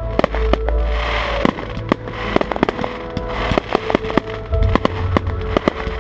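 Fireworks display: a rapid, irregular run of sharp bangs and crackles, several a second, over loud music with a heavy bass.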